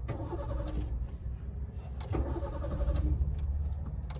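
Car engine running, heard from inside the cabin as a steady low rumble that gets a little louder about halfway through.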